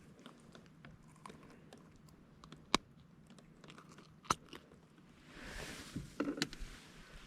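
Handling noises on a kayak: scattered light clicks and taps, two sharp clicks a second and a half apart, then a brief rushing rustle with a few knocks near the end.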